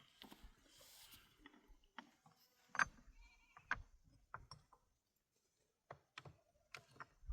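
Faint livestock bleat about three seconds in, among scattered sharp knocks and clicks.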